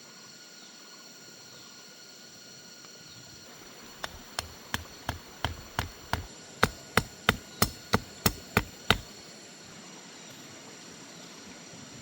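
Rapid, regular knocking, like wood being struck: about fifteen sharp blows roughly three a second, starting about four seconds in and growing louder before stopping. Steady insect buzzing runs underneath.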